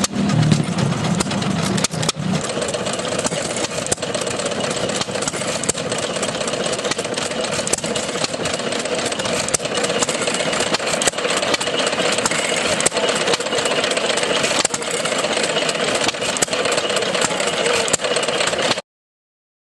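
Tractor engine running steadily, with a lower hum dropping out about two seconds in; the sound cuts off suddenly near the end.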